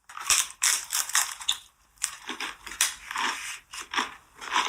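Close-up chewing of crunchy food: a quick, irregular run of crunches and crackles.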